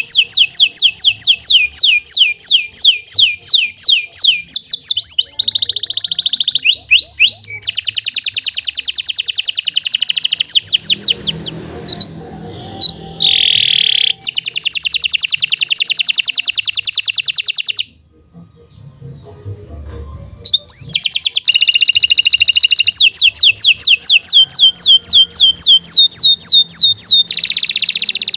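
Domestic canary singing a long song of fast rolling trills and rapidly repeated chirps, with a couple of short breaks about halfway through.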